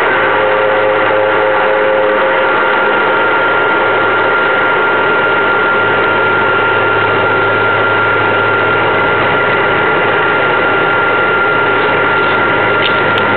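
Turboprop engines of a small aircraft running at takeoff power: a loud, steady drone with a constant high whine and low hum.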